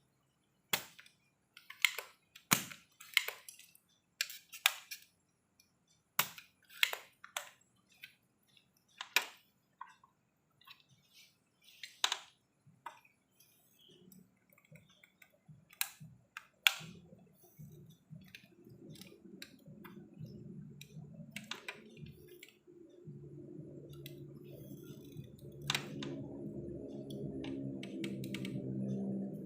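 A series of sharp, irregular clicks and knocks, like small tools or parts being handled on a workbench. Over the last dozen seconds a steady hum made of several low pitches fades in and grows louder.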